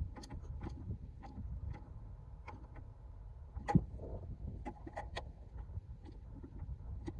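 Small plastic and metal parts clicking and tapping as a PCV valve is worked back into its place in an engine bay: scattered light clicks, one sharp click a little under four seconds in, and a quick run of clicks about a second later.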